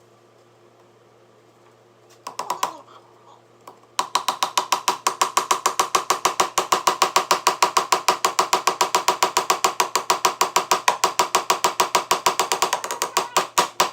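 Handheld drill clicking rapidly and evenly, about six or seven sharp clicks a second, starting about four seconds in after a brief first burst, like a ratcheting clutch.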